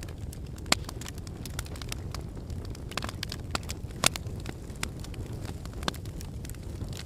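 Wood fire in a fireplace burning steadily with a low rumble, logs crackling and popping at irregular intervals, two sharper pops about a second in and about four seconds in.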